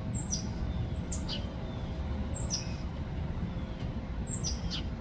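Songbird calling outdoors: about half a dozen short, high, down-slurred call notes at irregular intervals, over a steady low background rumble.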